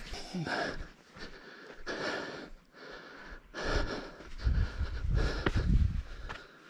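A person breathing hard, a run of quick loud breaths in and out from the exertion of scrambling up a steep rocky trail, with a low rumble on the microphone in the second half.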